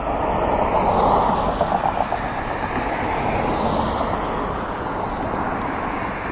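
Cross traffic passing on a wet road: a steady hiss of tyres on rain-soaked asphalt with engine noise, swelling as a vehicle goes by about a second in, then settling to a steady wash.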